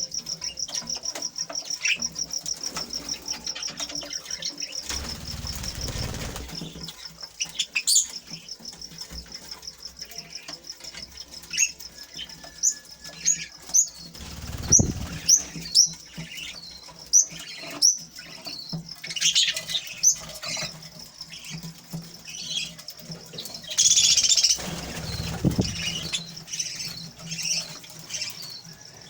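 Small cage birds in an aviary. A fast high trill runs for the first six seconds or so. Short high chirps follow, with a few brief flutters of wings.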